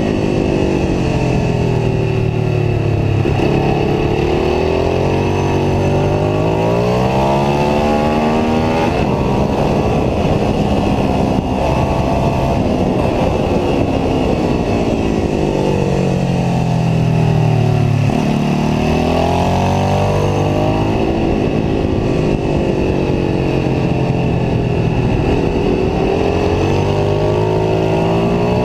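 Ducati 749S L-twin sport bike engine at full throttle on track, the note climbing in pitch through several upshifts, then dropping on deceleration and downshifts, in repeated cycles.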